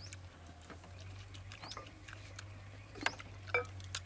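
People chewing and smacking their lips while eating chewy boiled beef intestine: a run of small wet clicks and smacks, with two louder mouth sounds about three seconds in.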